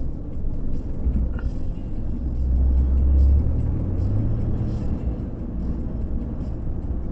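Car driving, heard from inside the cabin: a steady low rumble of engine and road noise. It swells a little a few seconds in, and its low note steps up shortly after.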